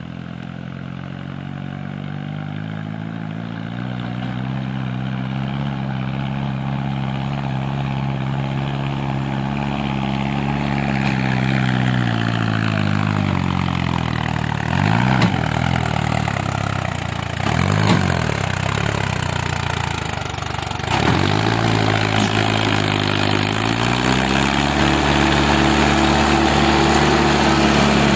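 Mahindra Arjun 555 tractor's diesel engine idling, its speed easing down through the middle. Three short revs come a few seconds apart, and then it settles at a higher, steady speed near the end.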